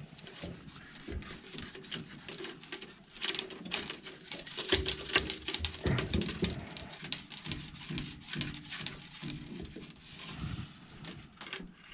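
Busy irregular clicking, scraping and rattling of hands working on furnace parts, heaviest through the middle of the stretch.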